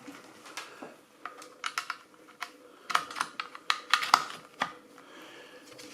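Irregular light clicks and rattles of small plastic parts being handled: DC power plugs and cables being fitted to a guitar effects pedal, with the busiest clicking in the second half.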